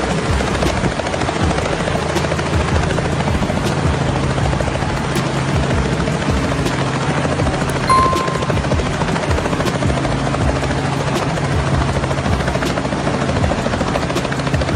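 Helicopter flying low, its main rotor beating in a steady rapid thudding over a constant engine and rotor drone. There is a brief high tone about halfway through.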